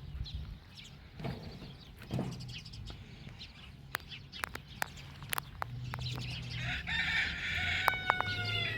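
A bird call, drawn out with a slightly falling pitch, near the end. Before it come a few scattered sharp clicks.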